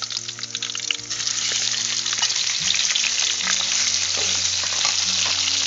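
Raw pork ribs sizzling as they are tipped into hot oil in a metal wok with garlic and chili. The sizzle grows louder about a second in, and a metal spatula scrapes and clicks against the wok as the ribs are stirred.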